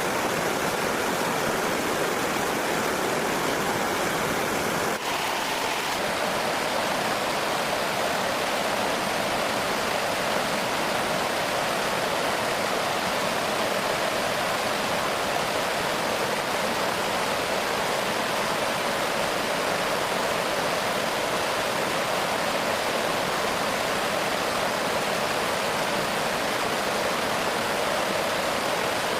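Steady rushing of flowing water, whose tone changes abruptly about five seconds in.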